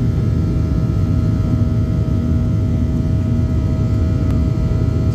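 Steady cabin noise inside a Boeing 737-800: a loud, even low rumble of its CFM56 jet engines and the airflow, with a steady hum over it.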